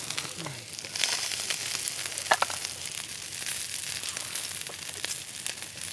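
Thick-cut beef steak sizzling on an iron griddle, with a steady hiss and many small crackles of spitting fat. The steak is finishing on the griddle's residual heat.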